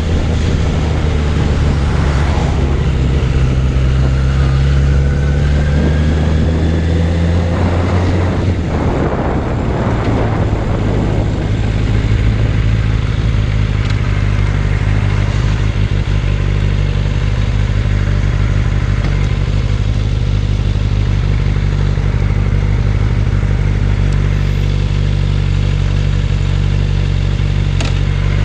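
Suzuki Bandit 600 inline-four motorcycle engine running under way. Its pitch rises over the first several seconds, then holds steady at a cruise for the rest. There are a few seconds of rushing noise about a third of the way in.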